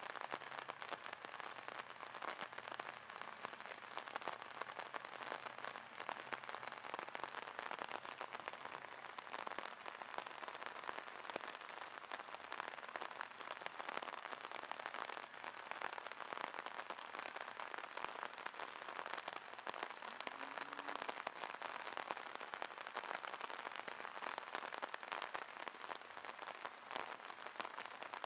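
Steady rain falling on the water of a drainage ditch and the grassy bank, a dense, even patter of drops.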